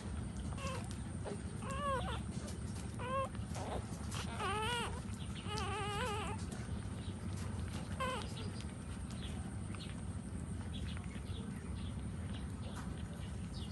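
Puppies whimpering and crying: about seven short high-pitched cries in the first eight seconds, two of them longer and quavering near the middle, then only faint small sounds over a steady low background rumble.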